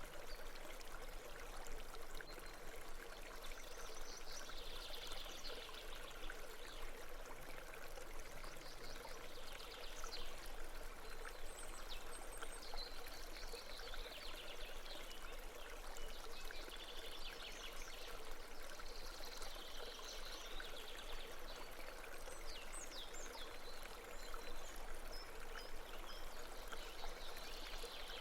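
Steady flowing stream: a continuous babble of water, with brighter splashy patches every few seconds.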